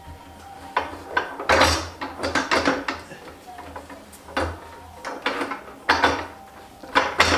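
Irregular clacks and knocks of hand tools and metal parts being handled as a motorcycle teardown begins: about a dozen sharp knocks at uneven spacing, with a bunched cluster a second and a half in.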